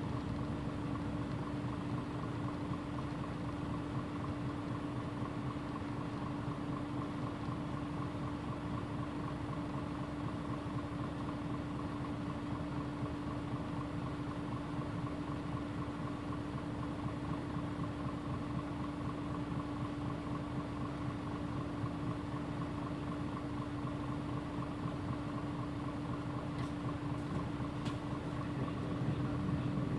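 Mitsubishi Fuso PJ-MP35JM city bus's diesel engine idling steadily with a constant hum, the bus at a standstill. The engine noise starts to grow right at the end.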